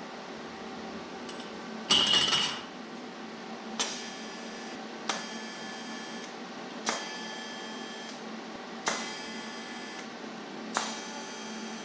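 Hammer blows on sheet steel, struck singly about every two seconds, each ringing briefly, over a steady hum. A short, loud clatter comes about two seconds in.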